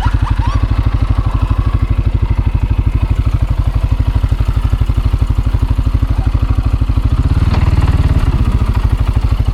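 CFMOTO CForce 600 ATV's single-cylinder engine idling with a steady, rapid pulse, swelling louder for about a second near the end.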